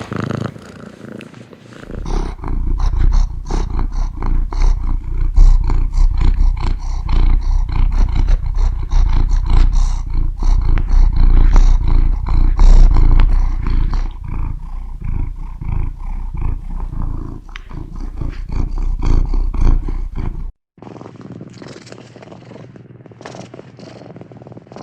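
Domestic cat purring loudly and close up, a deep rhythmic rumble that swells about two seconds in. Near the end it cuts off suddenly to a quieter, thinner stretch.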